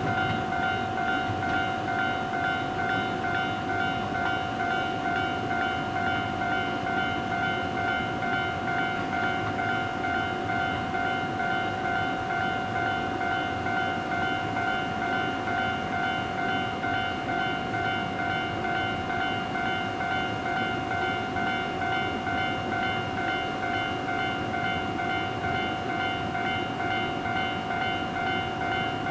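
A steady ringing signal tone with a fast, even pulse, held without a break, over the low rumble of a 115-series electric train standing at the platform. It has the sound of a station departure bell.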